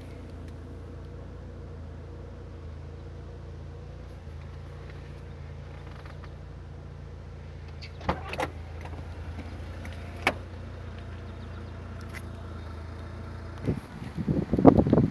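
Mazda RX-7 Turbo II's twin-rotor 13B turbo engine idling steadily, heard from inside the cabin as a low even hum. A few sharp clicks come about eight and ten seconds in, and louder wind and handling noise comes in near the end.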